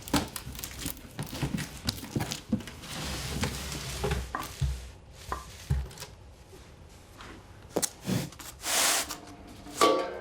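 Packaging being handled while a metal fire pit is unboxed: crinkling and tearing of wrapping with scattered knocks and clicks, a loud rustle near the end, then a sharp metallic clink that rings briefly.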